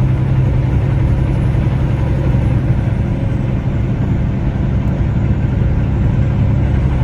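Semi truck's diesel engine running steadily, a low drone heard from inside the cab.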